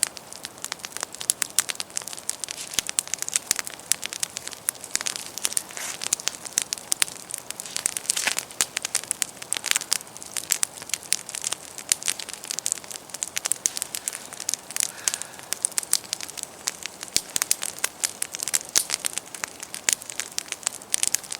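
Wood campfire burning damp firewood, crackling steadily with many irregular sharp snaps.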